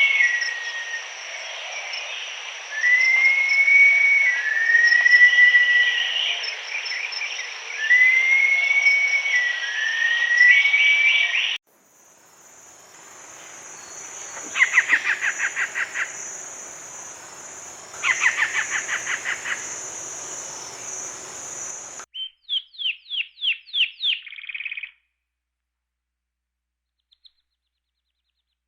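Bird calls from several recordings cut one after another. First come repeated arching whistled notes over a steady high hiss. After a sudden cut come two rapid trills, then a quick series of chirps about 22 seconds in that stops abruptly, followed by silence.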